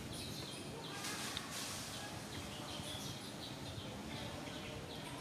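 Outdoor background with small birds chirping in short, repeated high calls, and a brief hiss about a second in.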